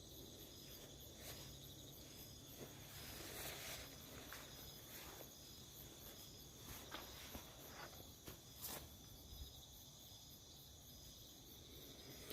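Faint, steady chirring of crickets and other insects, with a few soft clicks or rustles.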